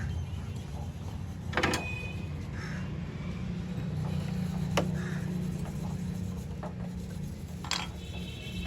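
Steady low hum with three sharp clicks or clinks, about three seconds apart.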